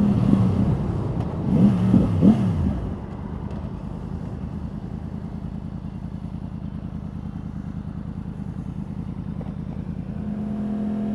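2014 Yamaha R1's inline-four engine: revs rise and fall a few times in the first three seconds, then it runs low and steady with an even pulse. Near the end a steady hum sets in.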